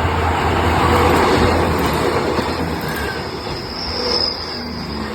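Express train running through a station at speed, a loud steady rush of wheels and carriages on the rails, with a high wheel squeal about four seconds in before the sound starts to fade.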